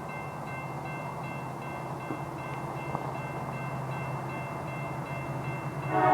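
Approaching diesel freight train rumbling steadily. A grade-crossing bell rings at about two to three strokes a second and fades after the middle. The locomotive's horn blasts in loudly at the very end.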